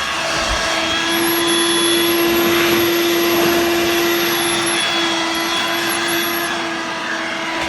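Dirt Devil Vibe corded vacuum in handheld mode running steadily, its motor giving an even whooshing suction noise with a steady hum.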